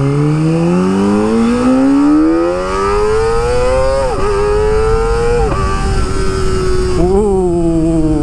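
Kawasaki ZX25R's inline-four with an Akrapovic exhaust, revs climbing steadily under hard acceleration for about four seconds, then two quick upshifts about four and five and a half seconds in before it holds steady; a short rise and fall in revs near the end.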